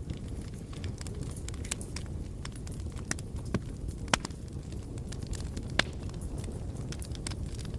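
Wood fire burning in a fireplace: a steady low rumble of the flames with irregular crackles and sharp pops, the loudest pops about four and six seconds in.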